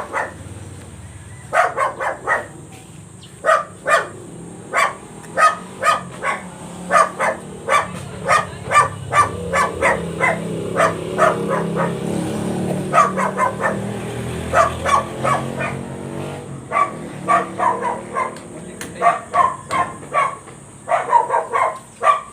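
A dog barking over and over in runs of quick barks. A low rumble swells and fades through the middle.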